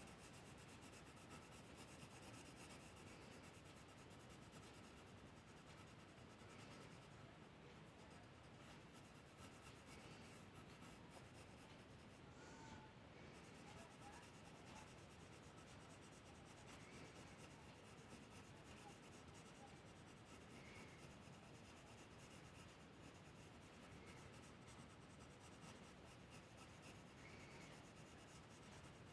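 Faint, steady scratching of a drawing tool moving across paper.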